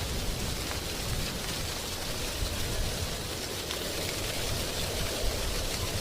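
Wind blowing through a tree's dry leaves: a steady rustling hiss with an uneven low rumble of wind beneath it.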